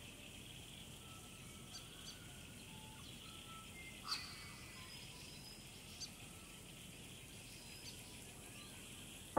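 Faint outdoor bird ambience: scattered short bird chirps and faint whistles over a steady high hiss, with the sharpest chirp about four seconds in.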